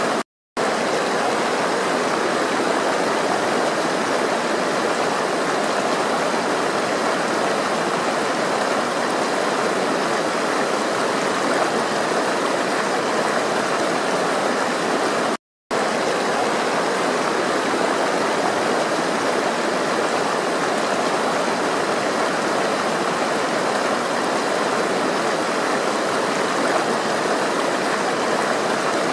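Flowing water rushing steadily, like a stream, cutting out to silence for a moment just after the start and again about halfway through.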